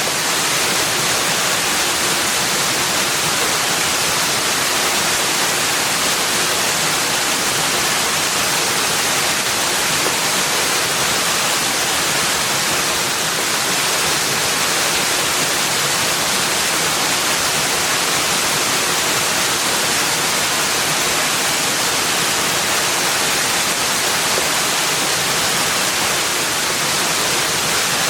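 Steady, unbroken rushing of running water, an even hiss with no distinct splashes or other events.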